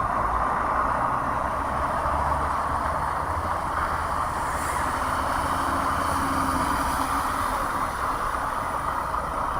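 Steady motor-vehicle noise: engine and road rumble with no sudden events.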